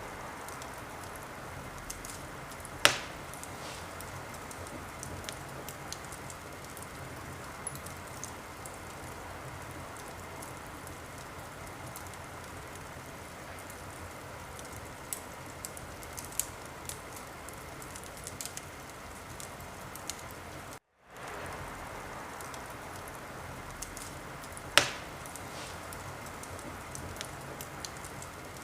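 Wood fire in a fireplace crackling: a steady hiss with scattered small ticks and two loud sharp pops, one about three seconds in and one near the end. The sound cuts out for a split second about two-thirds of the way through.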